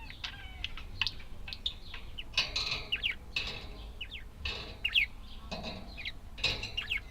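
Budgerigars chirping: a run of short, quick chirps that slide up and down in pitch, with brief bursts of fluttering or rustling among them.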